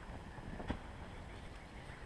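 Wind rumbling on the microphone in a snowstorm, with one short sharp knock under a second in.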